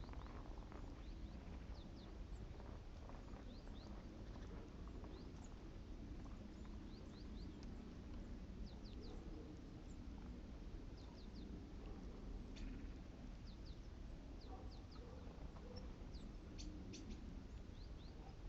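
Great tits giving faint, thin, high calls: short notes that slide steeply down in pitch, scattered singly and in quick twos and threes, over a steady low rumble.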